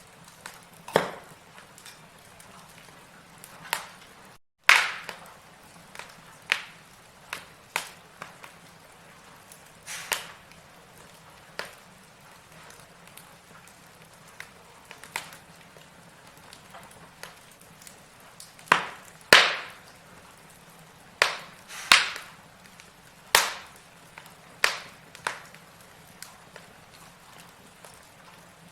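Wood logs burning in a fireplace: irregular sharp crackles and pops, one every second or so, over a faint steady hiss of flame. The pops come thicker and louder in the second half. The sound cuts out completely for a split second about four seconds in.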